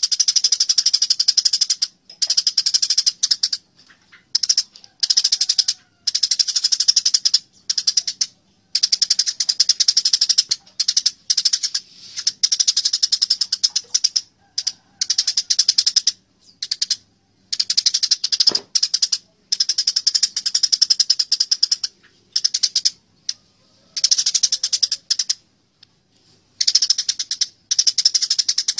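Eurasian tree sparrows (burung gereja) chattering in a fight, rapid dense high-pitched chirps in bursts a second or two long with short pauses between.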